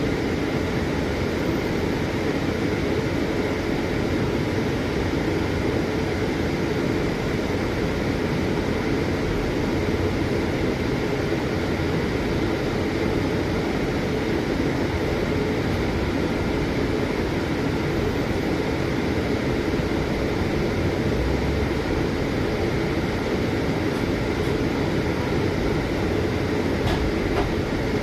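Steady rumble of a Scania city bus heard from inside the cabin, with faint steady tones over an even drone of engine and running noise.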